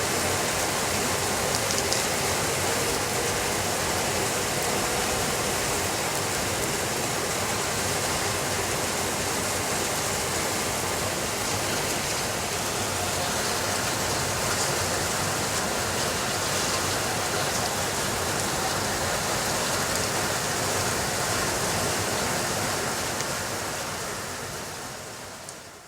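Steady rain ambience mixed with a fireplace's faint occasional crackles, fading out over the last couple of seconds.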